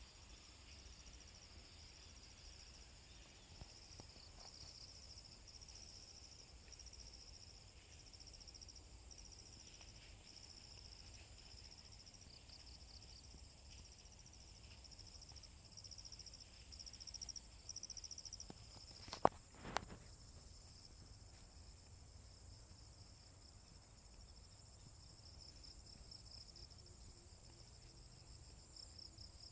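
Insects chirping steadily in rapid pulsed trills, with a faint high steady whine beneath. Two sharp clicks about two-thirds of the way in.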